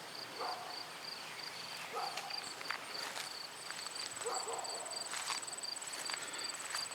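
Insects chirping outdoors: a steady pulsed chirp about three times a second, joined about two and a half seconds in by a higher, continuous trill.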